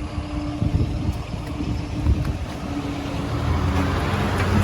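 Road traffic moving over the crossing, a lorry's engine running with a steady low rumble that grows louder toward the end.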